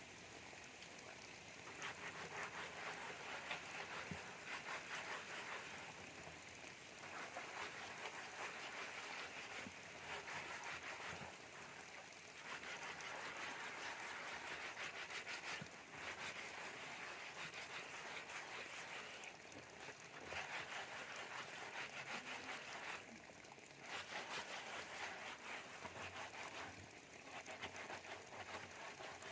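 Plastic jerrycan being scrubbed by hand with sand and soap: a gritty, rapid scraping that comes in bouts of a few seconds with short pauses between.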